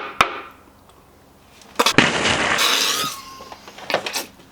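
A shot glass clinks sharply on a table just after the start. About two seconds in comes another sharp knock, followed by a loud rush of noise lasting about a second.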